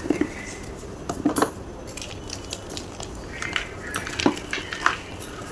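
Blocks of gym chalk crunching and crumbling: irregular sharp crackles and snaps, a few at a time with short gaps between.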